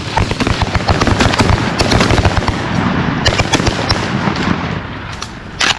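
Shotguns firing at geese from several hunters at once, a fast crackle of shots with a sharper shot near the end.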